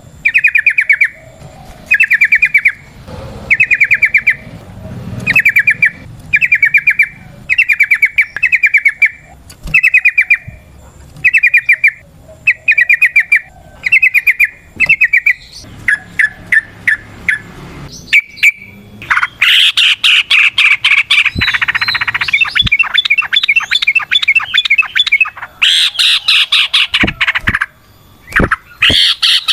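Yellow-vented bulbul (trucukan) singing: short bursts of rapid chattering notes about once a second. About two-thirds of the way through it turns into a louder, longer, near-continuous run of chattering notes.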